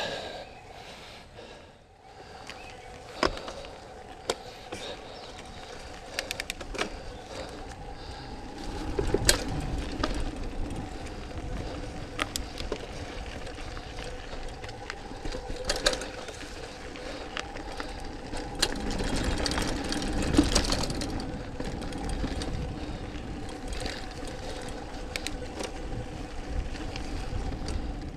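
Trek Mamba mountain bike riding over a dirt trail: tyre rumble and wind, with frequent clicks and knocks from the bike rattling over bumps, growing louder in two stretches, and a steady faint hum underneath.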